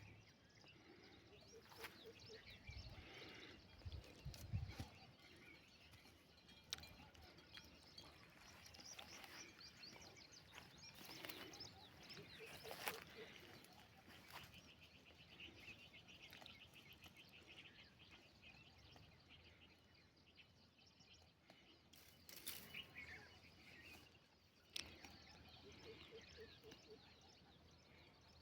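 Faint outdoor ambience of small birds chirping, including a fast trill midway, with occasional sharp clicks and rustles and a couple of low thumps in the first few seconds.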